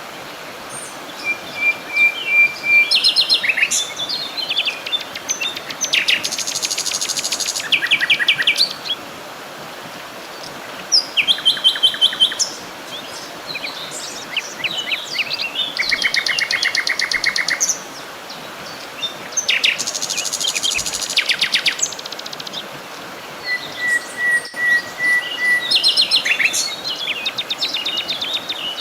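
Songbirds singing in short phrases, with fast buzzy trills and quick whistled notes, and twice a steady held whistle, over a faint even background hiss.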